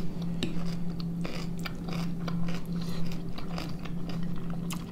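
Close-miked chewing of boiled pelmeni by two people eating, with many short wet clicks and smacks of mouths and forks, over a steady low hum.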